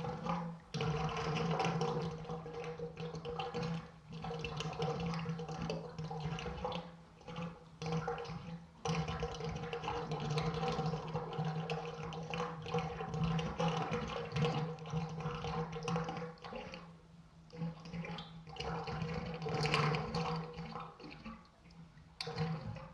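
Recorded sound effect of rushing, splashing water that swells and eases every few seconds, over a steady low hum.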